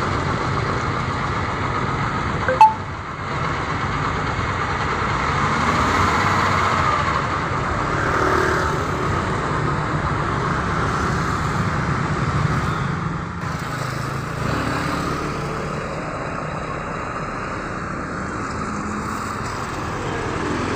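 Mitsubishi Fuso truck running along the road: steady engine and road noise, with one sharp knock about two and a half seconds in.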